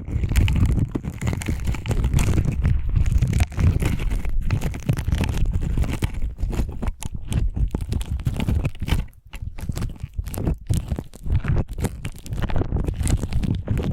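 Slime being squished and worked by hand close to the microphone, a continuous run of wet squelches with many small clicks and pops, briefly easing off about nine seconds in.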